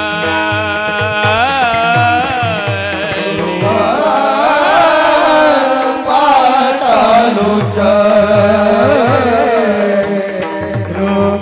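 Marathi Warkari kirtan music: a singing voice with melodic glides over a steady drone, kept in time by repeated low drum strokes and ticking hand cymbals.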